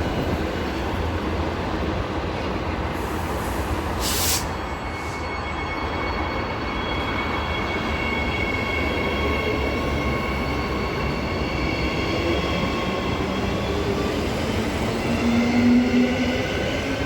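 Transperth B-series electric train, two three-car sets coupled, pulling out of a station: traction motors whining in several steady tones over rail and wheel noise, the lower tones rising in pitch as it gathers speed in the second half. A short hiss about four seconds in.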